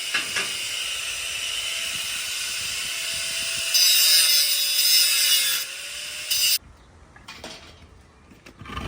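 Power tool running steadily on wood, louder for a couple of seconds in the middle, then cutting off abruptly, followed by a few light knocks.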